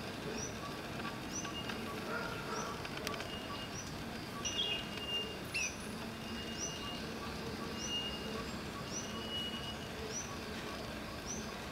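A bird repeating a short, high chirp about once every two-thirds of a second, with a thin steady whistle that comes and goes and a couple of louder calls near the middle, over steady background noise.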